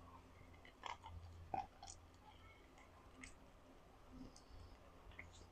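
Faint chewing of boiled chicken, with a few small clicks of the mouth and teeth scattered through.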